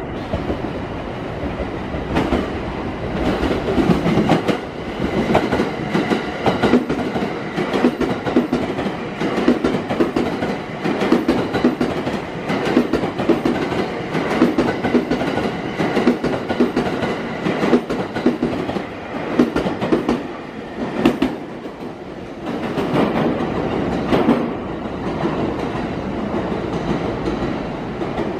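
Limited express electric train running past on the tracks, its wheels clacking over the rail joints in a fast, uneven rhythm.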